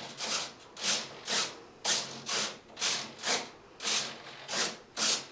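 Servos on an RC model airliner's wing driving the elevons back and forth, a short gear-whirring buzz with each movement, about two a second.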